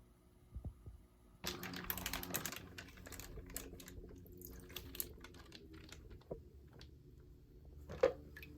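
Rustling and scattered small clicks of something being handled, starting suddenly about a second and a half in and thinning out, over a low steady hum.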